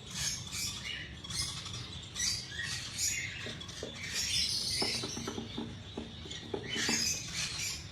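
Parrots chirping and squeaking in short, high calls that repeat throughout, with a few light taps or clicks in the second half.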